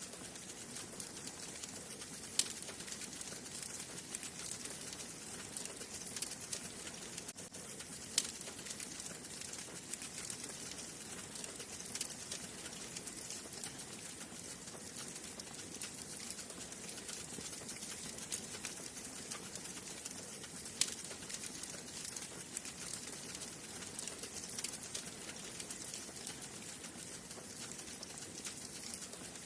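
Wood fire burning in a fireplace: a steady crackling hiss with many small pops and a few louder snaps scattered through.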